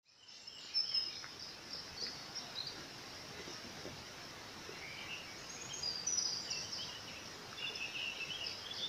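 Small birds chirping over a faint outdoor background hiss, the chirps short and scattered.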